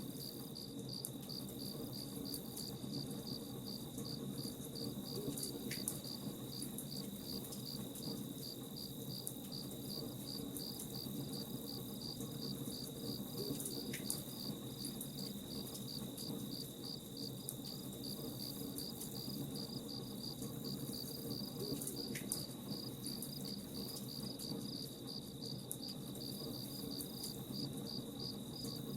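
A cricket chirping in an even, rapid pulse that never lets up, over a low steady rumble, with a few faint pops now and then as from a campfire.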